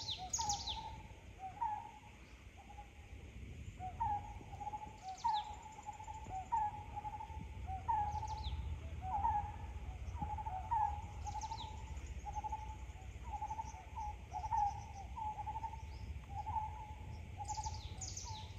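Forest birds calling: one bird repeats short, mid-pitched hooked notes about once or twice a second throughout. Now and then another bird gives a higher, quick falling call.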